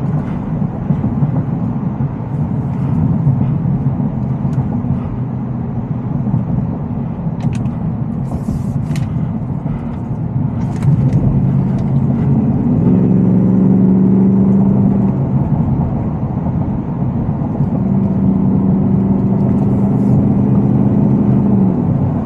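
The supercharged 5.0-litre V8 of a Shelby F-150 Super Snake pickup running while driving, over steady road noise. The engine note gets louder about halfway through and holds two steady drones.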